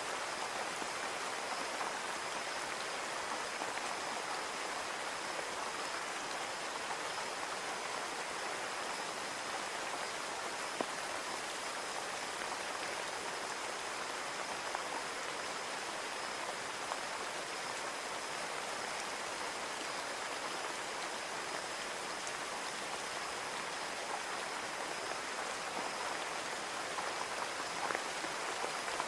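Steady rain falling on a window pane: an even hiss with a few single drop taps standing out now and then.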